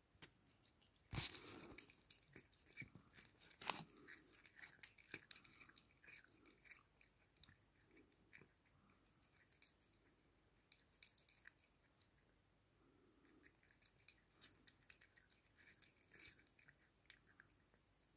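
A cat chewing and crunching on a caught mouse: faint, irregular crunches and clicks, with a louder crunch about a second in and another just before four seconds.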